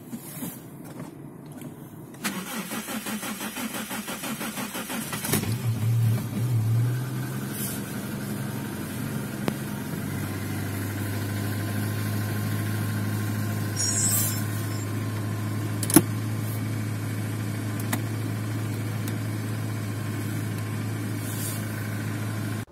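Suzuki Swift engine cold-started at −10 °C, heard from inside the cabin. The starter cranks for about three seconds, the engine catches with a brief rev flare, then settles into a steady fast cold idle. There is one sharp click about two-thirds of the way through.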